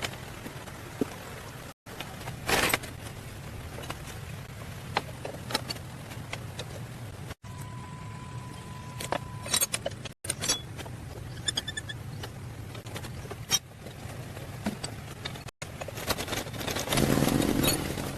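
Truck engine running steadily, heard across several abrupt cuts, with scattered clicks and light knocks over it and a louder stretch near the end.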